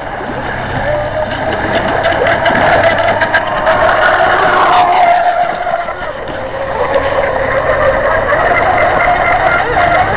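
Radio-controlled model boats' electric motors whining at speed, a steady high whine with a second, higher whine that slides down in pitch about four to five seconds in as a boat passes or eases off.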